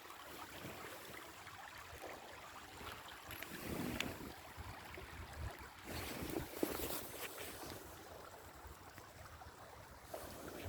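Shallow creek water sloshing and running, with wind on the microphone; the sloshing swells louder twice.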